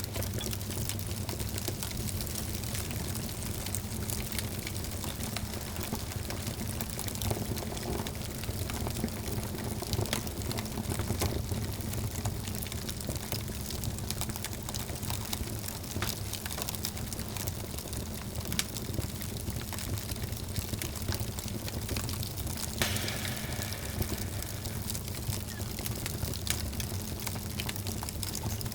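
Wood fire burning in a fireplace, with frequent small crackles and pops over a steady low rumble; a brief hiss about two-thirds of the way through.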